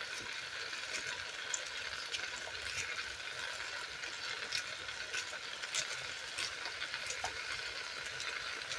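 Seasoned chicken and onion sizzling in a pot over a gas flame, cooking in its own juices before any water is added: a steady hiss with scattered small crackles.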